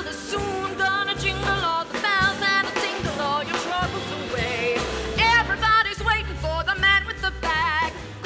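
Big band swing music: an instrumental break with horn lines played with vibrato over a moving bass line.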